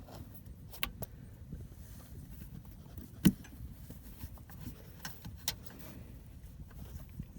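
Scattered metallic clicks and knocks of a filter wrench being worked on the oil filter, with one sharp knock about three seconds in.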